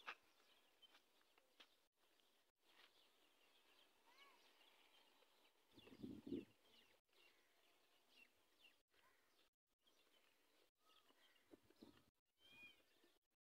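Near silence with faint bird chirps scattered throughout, and one short, louder low-pitched sound about six seconds in.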